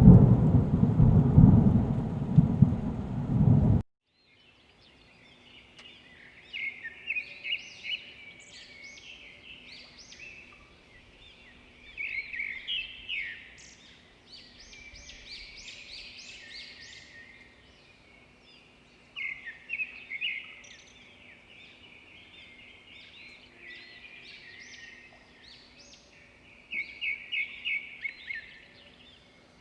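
A loud low rumble for the first four seconds that cuts off abruptly, then bouts of high, rapid twittering chirps of edible-nest swiftlets every few seconds over a faint steady hum.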